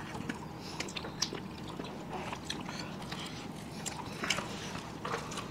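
Pizza being bitten and chewed: faint, irregular crunches and wet mouth clicks.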